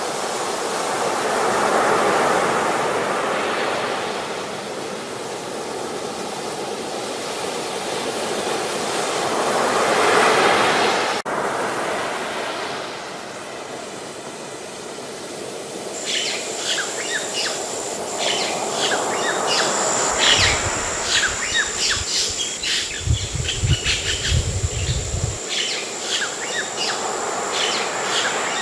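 Ocean waves washing in and out, swelling twice, then, from about halfway, many birds chirping over a steady high insect trill, with some low rumbling bursts.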